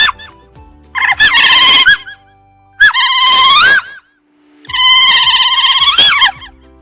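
Seal calling: three long, high-pitched wavering calls, with a short squeak at the start, over quiet background music.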